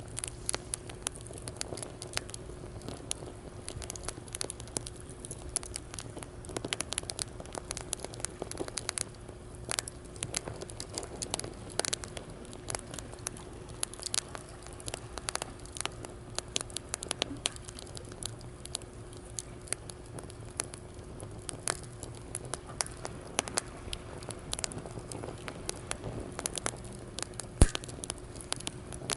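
Wood fire crackling in a fire stand, with many quick irregular snaps and one much louder pop near the end.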